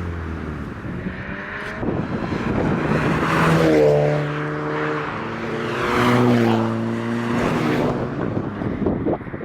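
Cars accelerating past one after another, their engine notes swelling to two peaks about four and six seconds in. Short crackles near the end.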